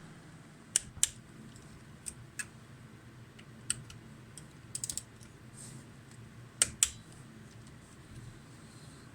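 Scattered sharp clicks and light taps of small metal engine parts and tools being handled during assembly, irregular and unhurried. The loudest come in pairs about a second in and about two-thirds of the way through, with a quick run of three taps near the middle.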